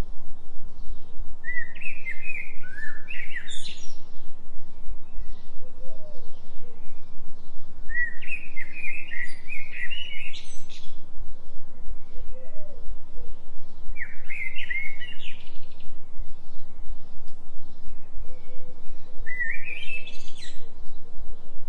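A songbird sings a short warbling phrase, rising at the end, four times at about six-second intervals. Beneath it runs a constant deep hum that pulses rapidly and evenly: the low delta-wave binaural-beat tone laid under the nature sound.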